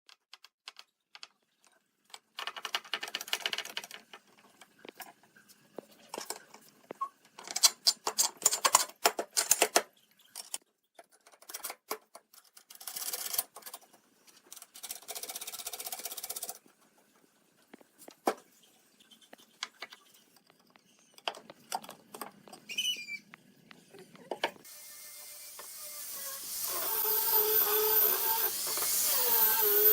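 Workshop hand-work noises: short bursts of scraping or rubbing with scattered clicks and knocks. About 25 seconds in, a small high-speed electric power tool starts and runs, a hissing whine whose pitch wavers as it works and that grows louder.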